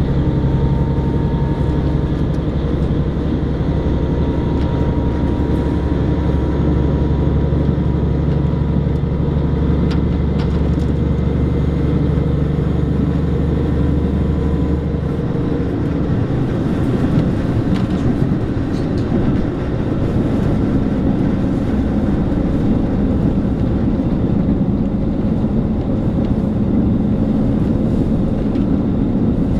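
Cabin noise of a diesel local train running on the line: a steady low engine drone with an even rumble of wheels on rail. About halfway through the low drone drops away, leaving mainly the rougher running rumble.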